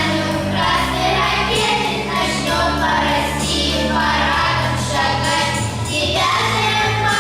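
A vocal group singing a song over instrumental accompaniment with sustained low bass notes.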